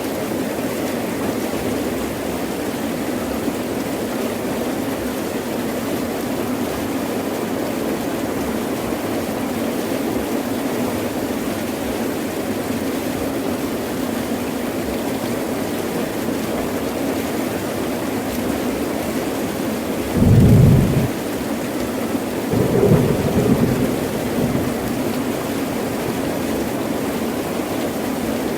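Heavy rain falling steadily. About two-thirds of the way through, thunder rumbles twice: a short low clap, then a longer rolling rumble a couple of seconds later.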